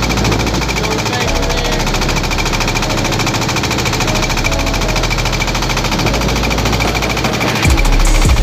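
Boat engine running steadily with a rapid knocking beat.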